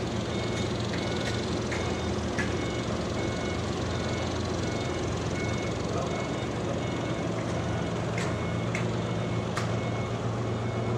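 Sawmill machinery running steadily with a low hum, with a few sharp knocks and clicks scattered through.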